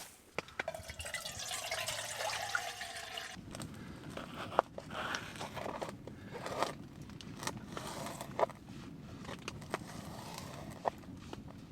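Water trickling for the first few seconds, then scattered light clicks and knocks.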